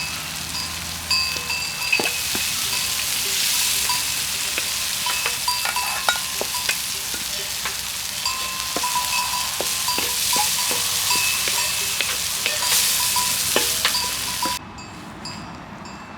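Food frying in hot oil in a pan over an open fire: a steady sizzle with scattered crackles and clicks, which cuts off abruptly near the end.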